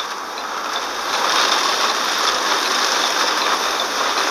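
Rain striking the windshield and body of a stopped vehicle: a steady hiss that grows a little louder after about a second.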